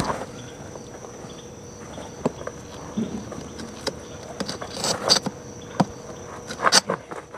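Steady high-pitched drone of insects, with scattered short scrapes and knocks from work on the ground, the loudest clusters about five seconds in and again near the end.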